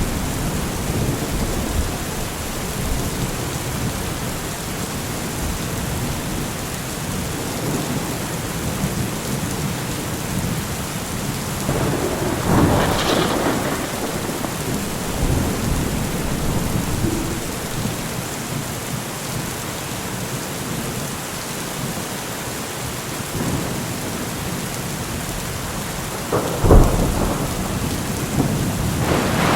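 Thunderstorm: steady rain falling, with a rumble of thunder about halfway through and a sharper, louder thunderclap near the end.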